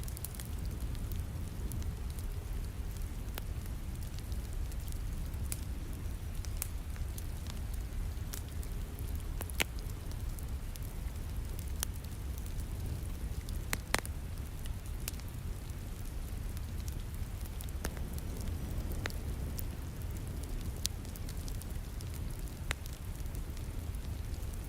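Wood fire crackling, with scattered sharp pops, the loudest about ten and fourteen seconds in, over a steady rain hiss and low rumble.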